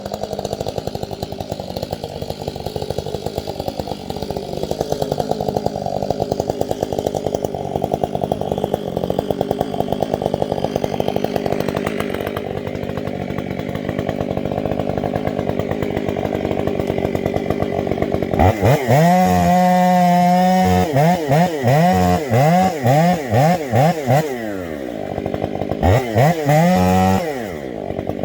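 Stihl MS 500i two-stroke chainsaw running steadily at high speed, as when cutting. Past the middle it is revved up and down repeatedly in quick throttle blips, with two more near the end.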